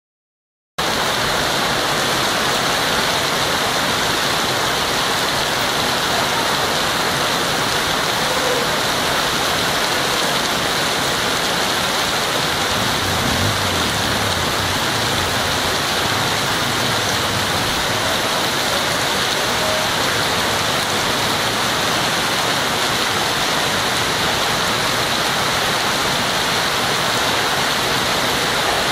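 Heavy rain downpour: a steady, loud rush of rain falling on ground and trees, starting suddenly about a second in.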